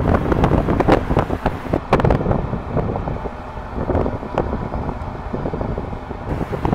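Wind buffeting the camera microphone in uneven gusts, a loud low rumbling noise.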